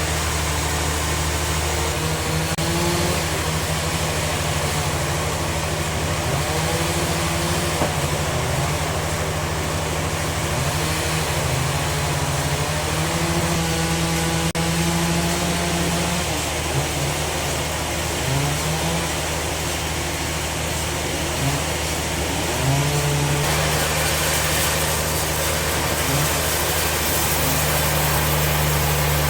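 Sawmill band saw machinery running with a steady, loud engine-like hum, its higher tones shifting in pitch now and then.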